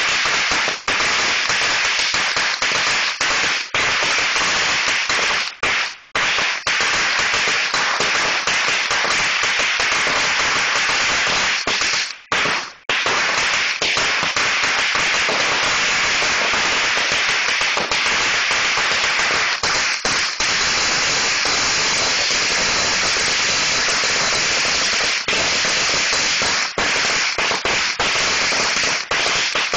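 A long string of Black Cat firecrackers going off in continuous rapid crackling bangs, with a brief break about twelve seconds in before it carries on.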